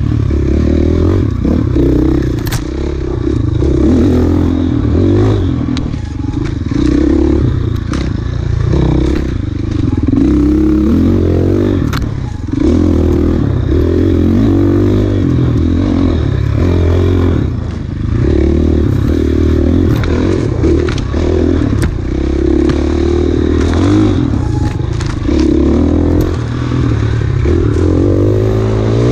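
Off-road dirt bike engine under hard riding, its pitch rising and falling again and again as the throttle is worked and the gears change, with occasional sharp knocks and clatter from the bike over rough ground.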